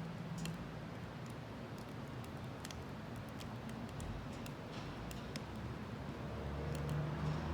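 Wood fire crackling in a homemade Solo Stove-style wood-gas stove: irregular sharp pops and ticks over a steady hiss.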